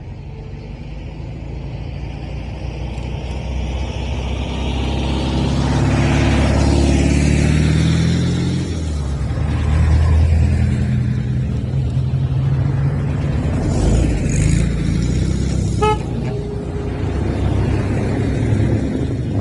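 Motorbikes riding past one after another, their engines building up and sweeping in pitch as each goes by, with a horn toot among them.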